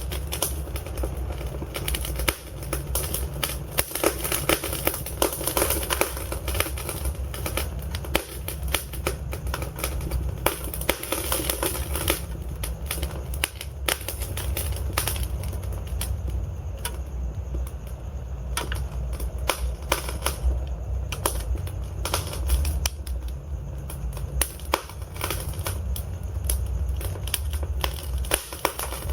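Wood fire burning in a fireplace, with steady crackling and frequent sharp pops from the logs over a low rumble of flame.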